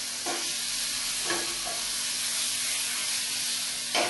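Prawns and sliced garlic sizzling in hot oil in a frying pan. A spatula stirs them with a few short scrapes, the loudest near the end.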